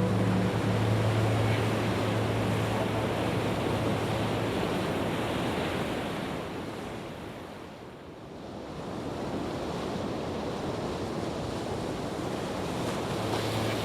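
Steady hiss of heavy rainfall. A low hum under it fades out in the first few seconds. The rain sound dips to quieter about halfway through, then comes back up.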